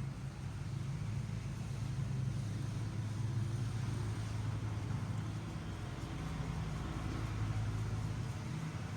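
Steady low drone of an engine or motor running, with a faint hiss above it.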